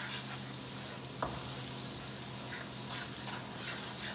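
Onion-and-spice masala frying in oil in a nonstick kadai, with a little water added so it won't burn, sizzling steadily while a wooden spatula stirs and scrapes through it. A single light knock comes about a second in.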